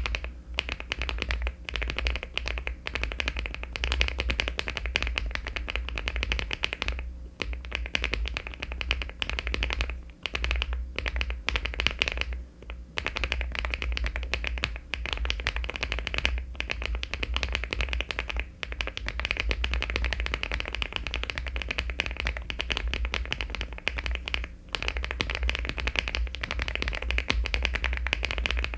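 Fast, continuous typing on a LEOBOG Hi75 aluminium mechanical keyboard fitted with HMX Perky switches and Cherry-profile keycaps, keystrokes clattering with a few short pauses.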